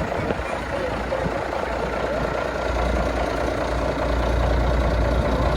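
International Transtar semi-truck's diesel engine idling steadily shortly after a cold start.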